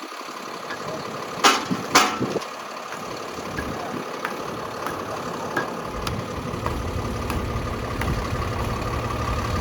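Snow-plow salt truck's engine idling, its low rumble growing stronger about six seconds in. Two sharp knocks sound close together about a second and a half in.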